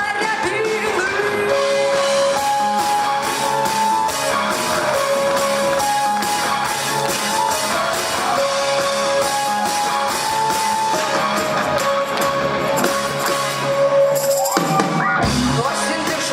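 Rock band playing live, an instrumental passage with drums and guitar under a melody of long held notes.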